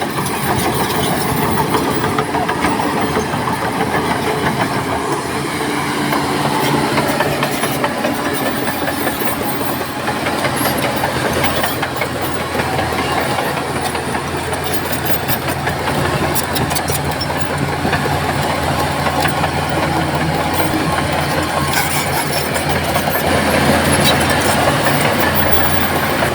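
Crawler bulldozer's diesel engine running steadily, with the clatter of its steel tracks.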